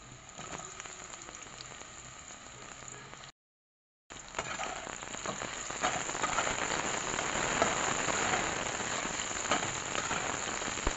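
Pieces of raw banana sizzling as they fry in hot oil in a kadhai, with occasional clicks of a metal spatula turning them. The sound cuts out completely for under a second about three seconds in, and the sizzling is louder after the gap.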